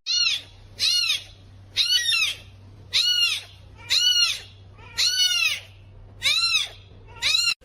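An animal calling eight times, about once a second, each call a short high cry that rises and falls in pitch.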